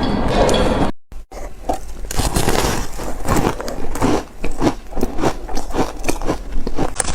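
Close-up crunching of frozen ice chunks coated with powdered milk and matcha being bitten and chewed: a rapid, irregular series of crisp crunches, broken by a brief silent gap about a second in.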